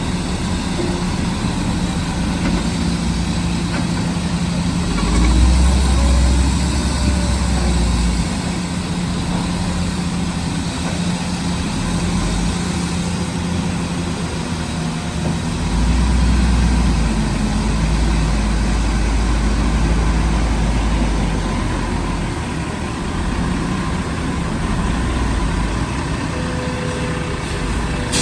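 Heavy diesel engine of earthmoving machinery running steadily, twice swelling into a louder, deeper rumble for a few seconds at a time.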